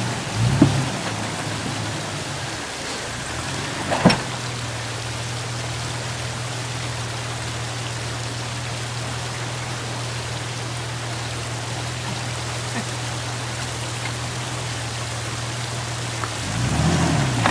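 Jeep Wrangler engine running at a steady low hum while crawling over rocks, picking up in revs near the end. Two sharp knocks come about half a second in and about four seconds in, over a constant hiss.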